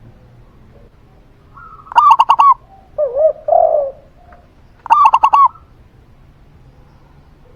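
Zebra dove (perkutut) and spotted dove (tekukur) cooing in turn. Two bursts of quick, clipped, higher notes come about two and five seconds in, and a lower, rolling coo falls between them.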